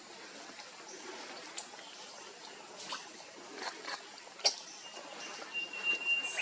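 Outdoor ambience with a steady hiss, scattered sharp ticks, and a thin, steady high whistle starting about five seconds in.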